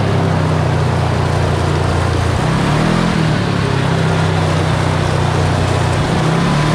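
Kawasaki KRX4 1000 side-by-side's parallel-twin engine running steadily under way on a trail, its pitch shifting slightly a couple of times with the throttle, over steady road and wind noise.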